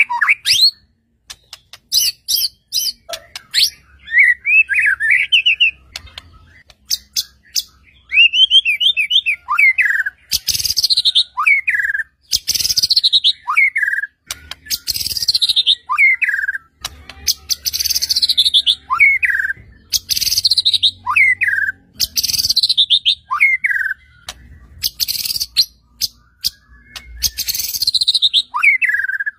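White-rumped shama (murai batu) singing loudly and continuously. It opens with varied warbling trills, then repeats the same phrase over and over, roughly every two seconds: a high whistle falling in pitch, ending on a lower note.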